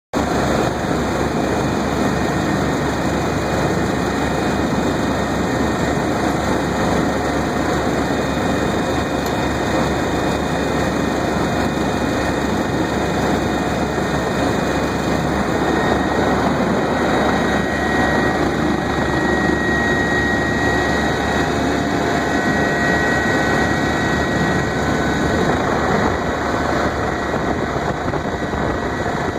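Steady loud cabin noise of a Bell OH-58 Kiowa helicopter, its single turboshaft engine and rotors running, with a high whine that comes in about halfway through.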